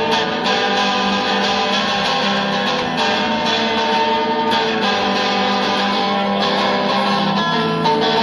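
Guitar-led music playing steadily, with strummed guitar chords.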